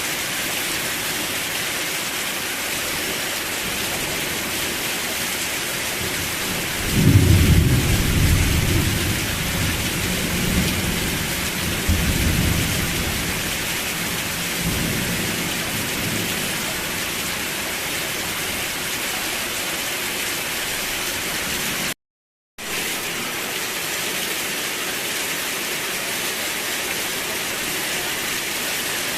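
Steady rain hiss. About seven seconds in, a low rumble of thunder rolls in, swells again a few seconds later and dies away. The sound cuts out completely for about half a second about three-quarters of the way through.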